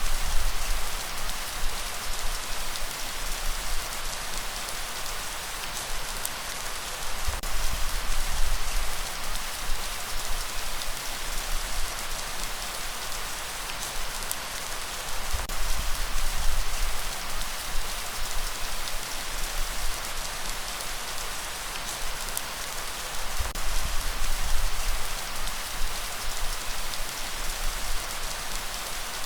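Steady heavy rain hissing, with a deep low rumble that swells and fades about every eight seconds.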